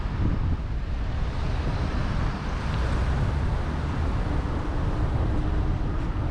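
Wind buffeting the microphone of a camera on a moving bicycle: a steady low rumble with a rushing hiss over it.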